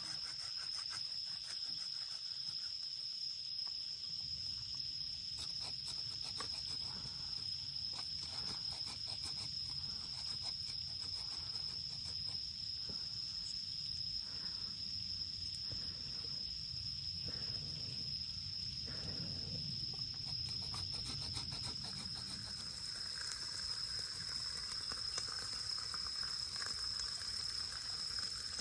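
Insects trilling in one steady, unbroken high tone, with a scatter of light crackles and a low background rumble.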